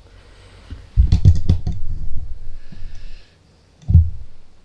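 A small home humidifier being handled and taken apart. A quick run of clicks and knocks comes about a second in, then a single thump near the end.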